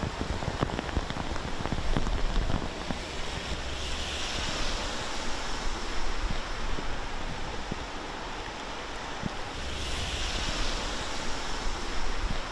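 Steady rain and rushing water noise, with wind buffeting the microphone. The wind rises in two gusts, a few seconds in and again later on.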